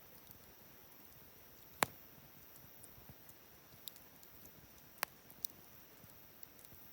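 Wood fire crackling: a faint steady hiss with two sharp pops, the louder about two seconds in and another about five seconds in, and a few lighter ticks between.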